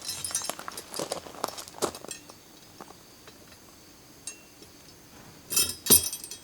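Tableware clinking: a run of light taps and clinks over the first two seconds, then two louder clinks in quick succession with a ringing tail near the end.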